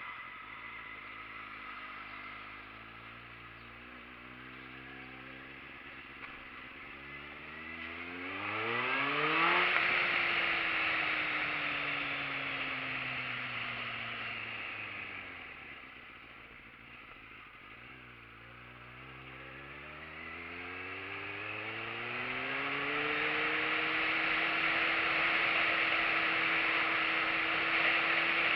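Motorcycle engine under way: revs climb sharply about a third of the way in, sink slowly as it eases off, then climb again and hold steady near the end. A rushing noise rises and falls with the speed.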